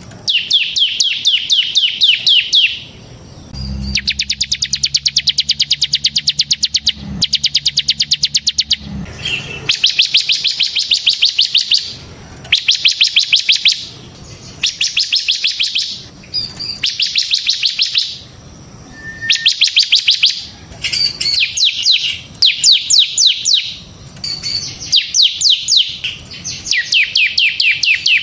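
Bar-winged prinia (ciblek) singing a rapid, drilling trill in phrases of about two seconds, repeated over and over with short pauses. A low hum runs under the song from about four to nine seconds in.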